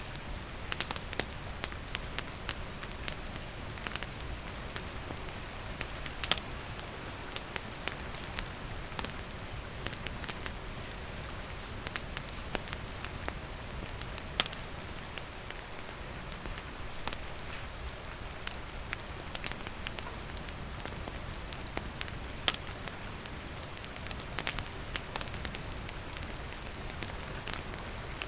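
Steady rain falling, mixed with a wood campfire crackling and popping, its sharp pops scattered irregularly throughout.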